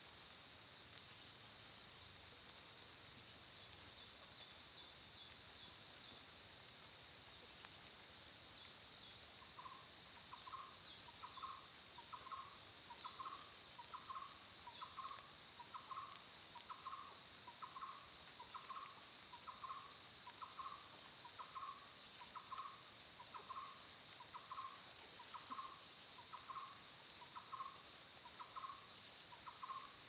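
A bird repeating one short call over and over, about once a second, starting about a third of the way in. Behind it are a steady high insect drone and scattered short, high chirps.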